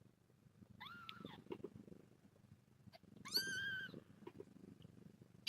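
Kittens meowing: a short high squeak about a second in, then a louder, longer, steadier meow a little after three seconds, over a low continuous cat purr.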